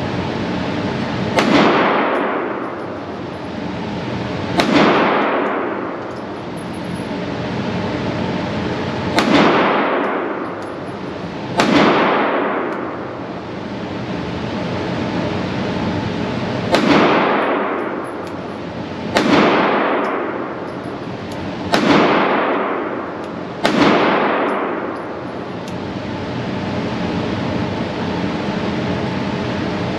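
Sig Sauer P365 9mm compact pistol fired eight single shots, spaced irregularly about two to five seconds apart. Each shot rings out in a long echo, over a steady background hum.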